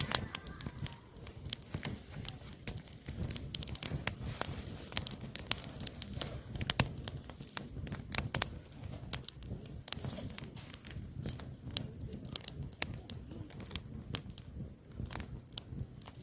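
Oak firewood burning, crackling with a steady run of sharp, irregular pops and snaps over a low rumble of the flames.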